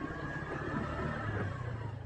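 Small motorcycle engine running steadily with a low hum, the bike under way.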